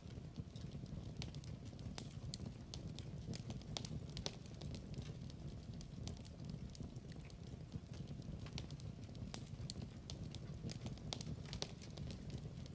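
Wood fire in a fireplace crackling, with frequent sharp irregular pops over a low, steady rumble of flames.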